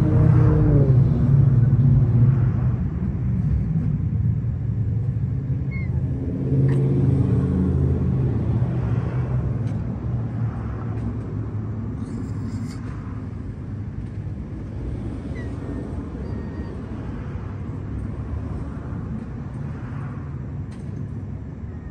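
Motor vehicle engine rumble, loudest in the first few seconds and again around seven seconds in, then slowly fading away.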